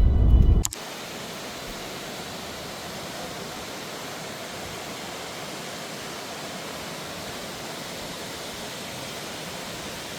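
A loud low rumble cuts off suddenly under a second in. A steady, even rushing noise follows, like falling or running water.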